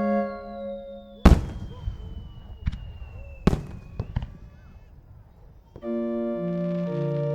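Fireworks going off: two loud sharp bangs, about a second in and about three and a half seconds in, with a few smaller cracks between and after them. Organ-like music stops early on and comes back near the end.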